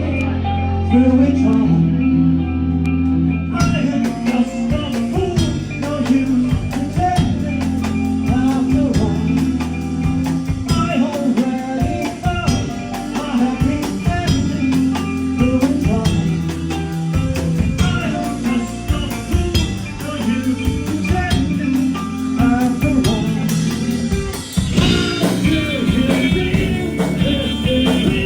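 Live rock band playing: electric guitar over sustained bass notes, with drums and cymbals coming in about four seconds in.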